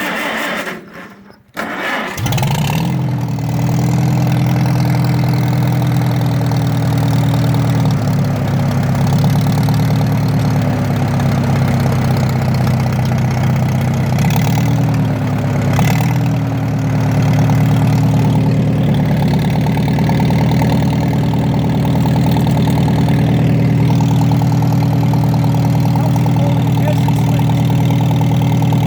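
1950 Farmall tractor engine cold-starting: it catches about two seconds in and settles into steady running, its speed wavering a little before it evens out.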